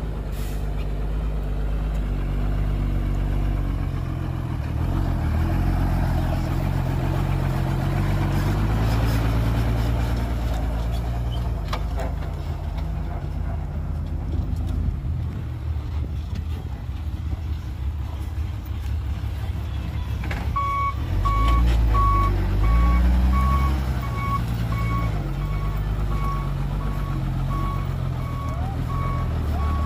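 Heavy diesel engine of a construction vehicle running and revving, its pitch rising and falling. About two-thirds of the way through, a reversing alarm starts beeping steadily about once a second over the engine.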